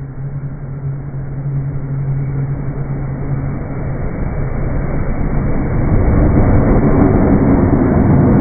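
A JR West electric commuter train approaching and passing at a level crossing, its rumble growing steadily louder from about four seconds in, heard slowed down in slow motion. Before that, a steady low hum fades out.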